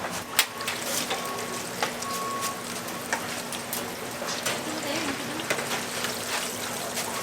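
Glutinous-rice twisted doughnuts (kkwabaegi) deep-frying in a vat of oil, a steady sizzle with scattered light clicks and knocks.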